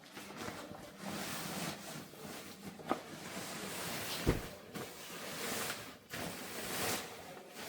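Rustling and handling of bedding while beds are being made, in uneven bursts, with two light knocks about three and four seconds in.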